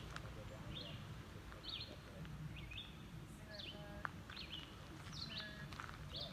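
A songbird calling: short high chirps repeated about once a second, over a low steady rumble.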